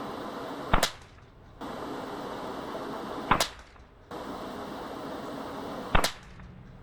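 Three suppressed shots from a Savage Mark II bolt-action .22 LR rifle, each a sharp crack, about two and a half seconds apart.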